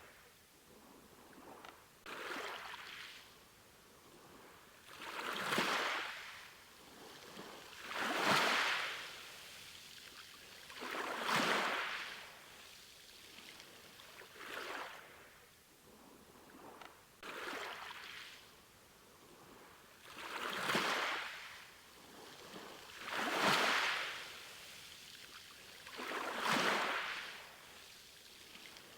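Sea waves washing in, one swell of rushing water about every three seconds, each rising and falling away over a soft steady hiss.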